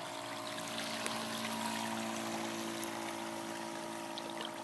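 Radio-controlled model PT boat's motor running with a steady whine over the wash of water as it makes a pass, slightly louder through the middle.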